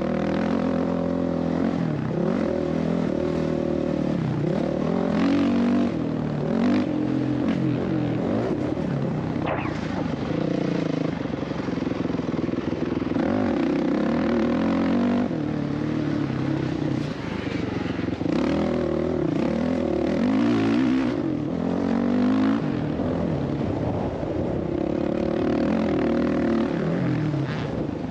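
Dirt bike engine revving, its pitch rising and falling again and again as the throttle is worked on the motocross track.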